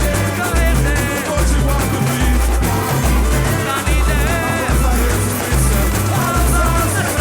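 Samba-enredo played live by a samba school's bateria and musical wing: deep surdo bass drum beats a little more than once a second, with percussion and a sung and played melody on top.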